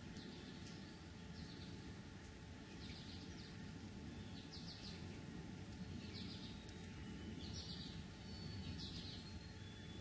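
Small songbird chirping: short clusters of high chirps about once a second, with a thin high whistle near the end, over a faint steady low rumble.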